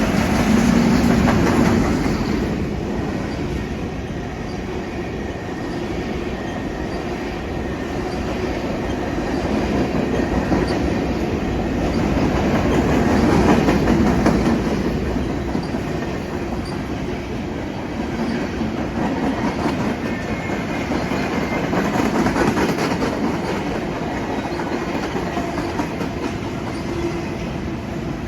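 Freight train cars rolling past on the rails, a continuous rumble with the clickety-clack of wheels over rail joints. It swells and eases every several seconds.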